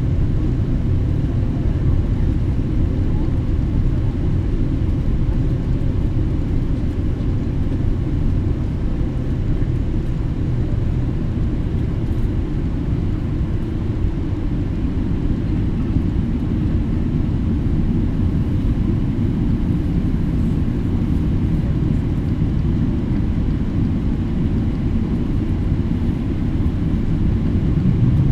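Steady low rumble of a Boeing 777-300ER's GE90 engines running at low power on the ground, with a few faint steady tones above it and no change in level.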